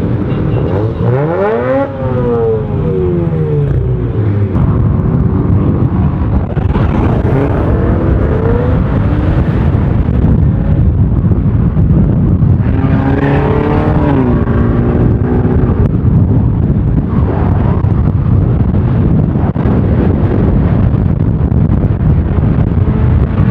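Car engines revving hard as the cars accelerate, their pitch climbing and dropping quickly near the start and rising and falling again about 8 and 13 seconds in, over loud steady road and wind noise.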